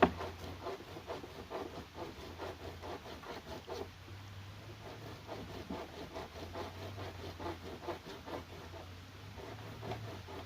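Rhythmic scraping or rubbing strokes of a hand tool working wood or bamboo. A last sharp strike comes right at the start; the strokes are quick and close together for the first few seconds, then sparser, over a low steady hum.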